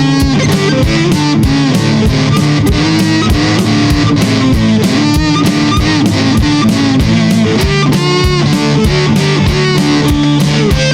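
Guitar played fingerstyle: a steady stream of plucked notes moving over a sustained low note, with a regular beat of sharp strokes about four times a second.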